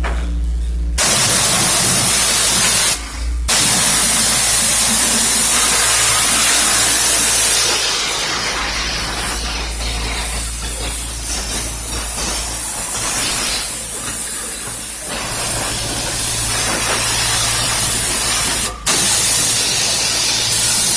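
Continuous hissing spray washing down an engine bay during degreasing, over a steady low hum. The spray breaks off briefly about three seconds in and again near the end.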